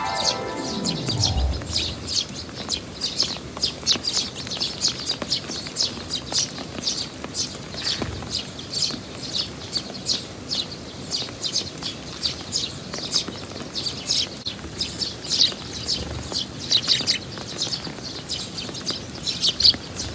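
Eurasian tree sparrow chirping over and over, several short chirps a second, with steady rain noise underneath. A falling glide tone drops away in the first second and a half.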